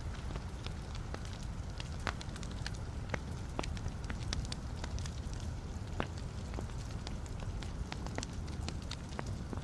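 Wood fire burning in a fireplace: a steady low rumble of the flames with irregular, sharp crackles and pops from the burning logs, several a second.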